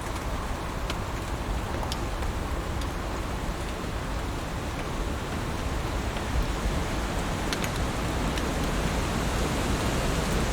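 Heavy rain falling steadily, with a few sharp drip ticks standing out now and then.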